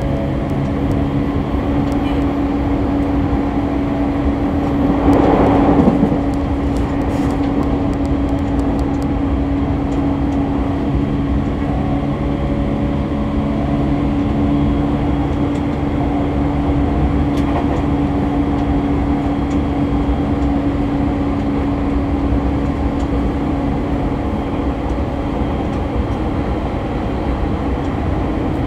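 Running sound inside a JR E231 series commuter train motor car cruising at about 85–90 km/h: steady wheel-on-rail rumble with a steady hum. The sound swells briefly about five seconds in, and the hum fades near the end.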